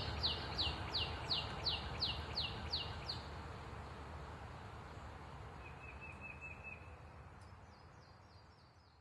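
Northern cardinal singing a quick series of repeated downslurred whistles, about three a second, for some three seconds. A short rapid trill from another bird follows, then fainter whistles near the end, over a steady outdoor hiss, the whole fading away.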